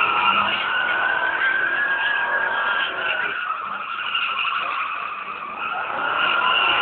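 Ford Falcon ute's rear tyres screeching continuously as they spin in a burnout. The screech eases slightly about five seconds in, then builds again.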